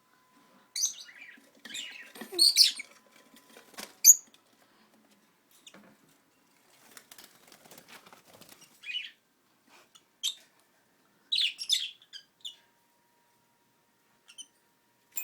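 Pet lovebirds chirping in short, high-pitched bursts, scattered and irregular, with a stretch of faint scratchy rustling about seven seconds in.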